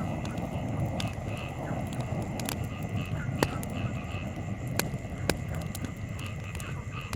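Wood campfire burning with scattered sharp crackles and pops over a steady low rush. A short high chirp repeats about twice a second in the background, with a faint steady high tone.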